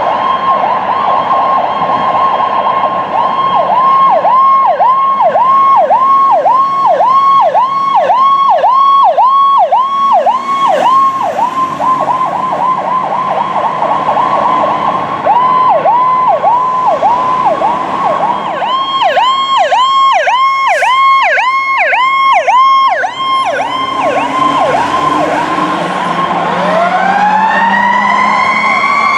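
Emergency vehicle electronic sirens sounding a fast yelp, the pitch dipping and springing back about three times a second. Near the end a Federal Q mechanical siren starts winding up, its pitch climbing steadily.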